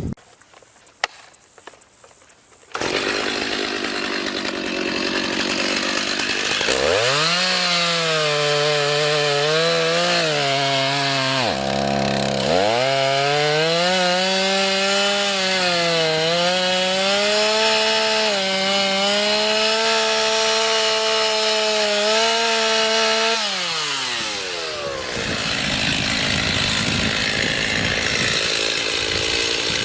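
Stihl MS290 Farm Boss two-stroke chainsaw bucking a log. The saw comes on abruptly about three seconds in and is revved high while cutting through the wood for about sixteen seconds, its pitch wavering with the load and dropping briefly midway. It then falls back toward idle for the last few seconds.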